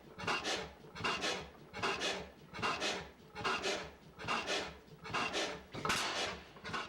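Myrick Eclipse hit-and-miss stationary engine running, its exhaust and intake making a steady rhythm of breathy puffs about two a second.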